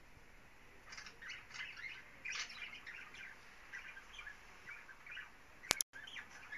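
Pet birds in a cage chirping softly in short, scattered twitters. A sharp click comes near the end, followed by a brief cut-out.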